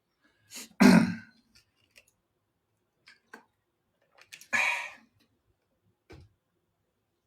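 A man clearing his throat about a second in, then a breathy exhale a few seconds later, with a few faint clicks in between.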